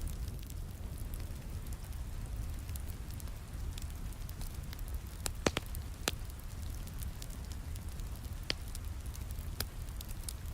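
Wood fire crackling in a fireplace, with faint quick ticks throughout and a few sharp pops, the loudest about halfway through. Underneath, a steady low rumble of rain.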